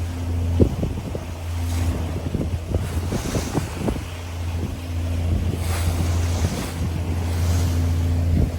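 Trawler's diesel engine droning steadily under way, with wind gusting on the microphone and waves washing past the hull. A few short knocks sound through it.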